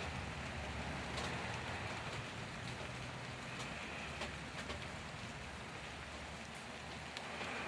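Steady rain falling, with scattered individual drops ticking against a surface.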